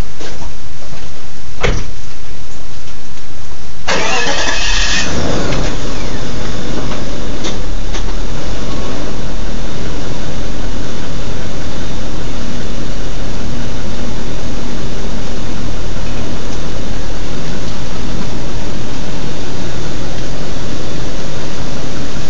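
An Infiniti car's engine starting about four seconds in after a few clicks, then running steadily at idle, loud.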